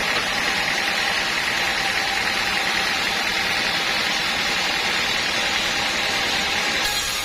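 Sawmill machinery running steadily: an even, unbroken mechanical hum and hiss.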